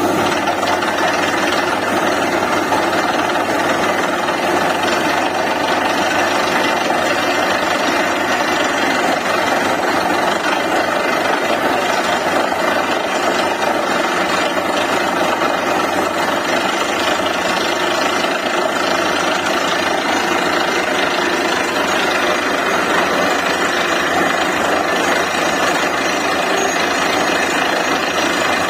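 DTH borewell drilling rig running steadily: its diesel engine and air compressor drive the down-the-hole hammer, which rattles continuously.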